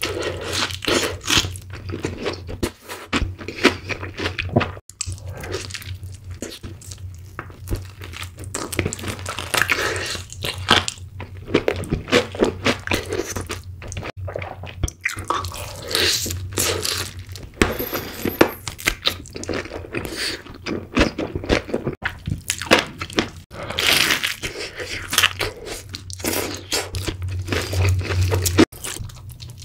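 Close-up crunching and chewing of fried chicken covered in cheese sauce, a quick irregular run of crisp crackles as the crust is bitten and chewed.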